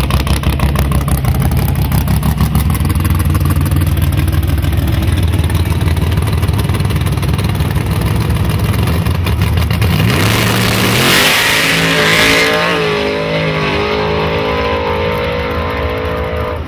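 Fox-body Ford Mustang drag car's engine running loud and lumpy at the start line. About ten seconds in it launches at full throttle with a burst of noise, then accelerates hard away, its pitch climbing and dropping at each gear shift.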